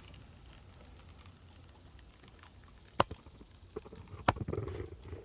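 Two sharp clicks about a second and a quarter apart, with light clattering between and after them, over a faint low hum.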